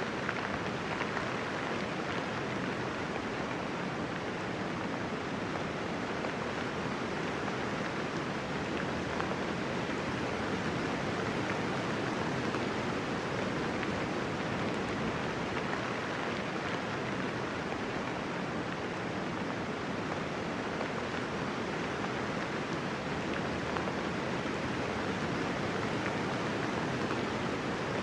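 Steady rain falling, a dense even hiss of drops with no thunder and no distinct single drips.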